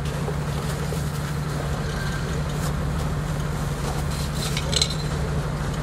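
Lifted Jeep Grand Cherokee's engine idling steadily, with a brief click near the end.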